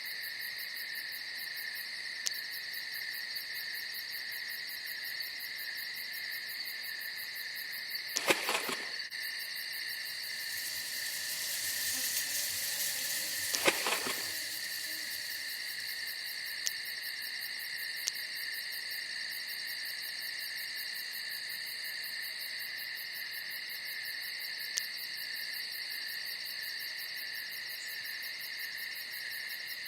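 Night insect chorus of crickets or katydids trilling steadily in several high bands. Two short noisy bursts, a rustle or splash, come about eight seconds in and again near the middle, with a brief hiss between them.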